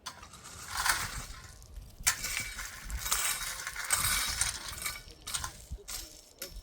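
Loose gravel pouring and sliding, with a crunching, clinking rattle that comes in waves.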